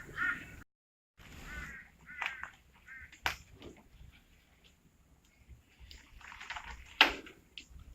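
Short, harsh animal calls, a few in quick succession early on and more near the end, with two sharp knocks, the second and louder one close to the end.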